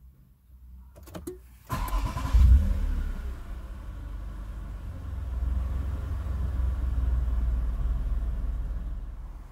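Toyota Blade Master's 3.5-litre V6 being started. A few clicks come about a second in, then the engine cranks briefly and catches with a rev flare. It settles into a steady idle around 1,000 rpm.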